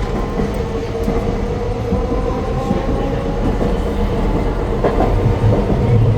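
Hakodate City Tram 8000-series streetcar running on its rails: a steady low rumble of wheels on track with a motor whine over it, and a light knock about five seconds in.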